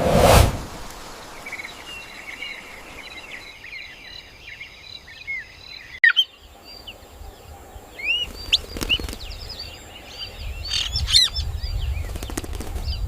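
A loud, sudden crack-like burst right at the start, then wild birds chirping, with many short calls and quick upward sweeps. After an abrupt cut about six seconds in, more bird chirps continue over a low rumble.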